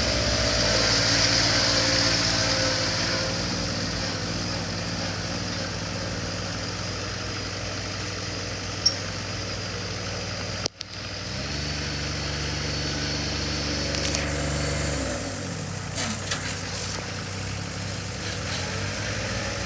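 Yanmar SA424 mini loader backhoe's diesel engine idling steadily. About halfway through the sound briefly drops out, then the engine note changes for a few seconds before settling back.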